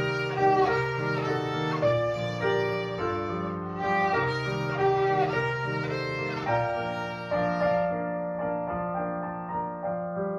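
Violin playing a melody with piano accompaniment.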